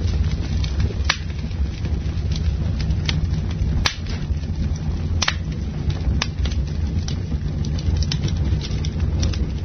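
Campfire burning, its wood crackling with irregular sharp pops, a few louder than the rest, over a steady low rumble.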